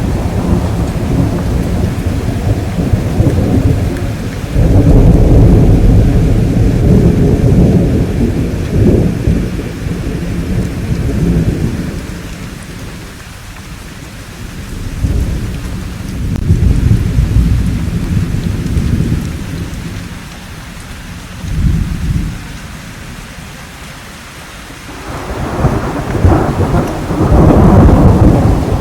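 Thunderstorm: rolling thunder over steady rainfall. Long, low rumbles swell and fade in waves, loudest about five seconds in and again near the end, with quieter stretches in between where the rain is heard more plainly.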